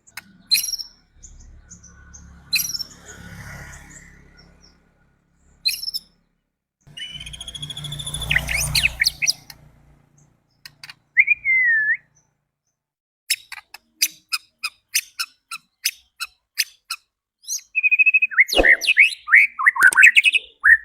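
White-rumped shama singing in separate whistled phrases, with a run of sharp, evenly spaced ticking calls in the second half and fast sweeping notes near the end. A faint low rumble lies under two of the phrases in the first half.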